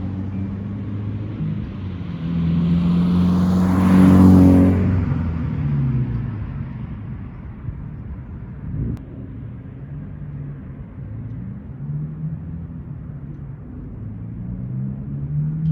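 Subaru BRZ's flat-four boxer engine, its muffler removed (muffler delete straight pipe), accelerating past close by. It is loudest about four seconds in, then its pitch drops and the exhaust note fades to a lower, uneven drone in the distance.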